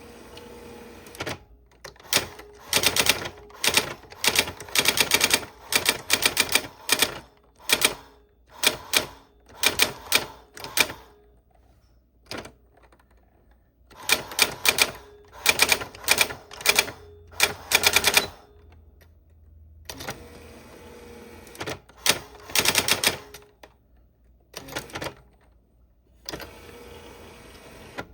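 Old typewriter being typed on: rapid runs of sharp key strikes, several a second, broken by short pauses.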